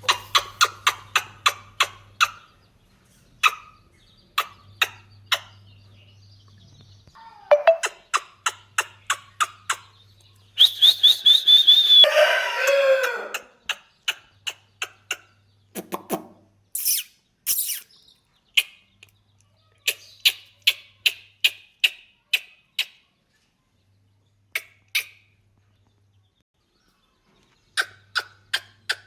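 A parrot calling: runs of short, sharp chirps at about four a second, broken by pauses, with one longer, harsh squawk about eleven seconds in.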